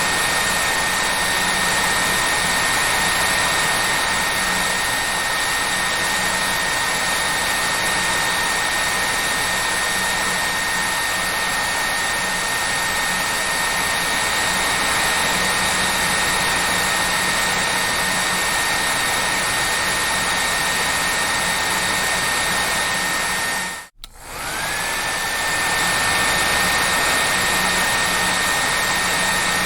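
Hair dryer blowing with a steady rush of air and a high motor whine. About four fifths of the way through the sound drops out almost to silence for a moment, then comes back with the whine rising back up to its pitch.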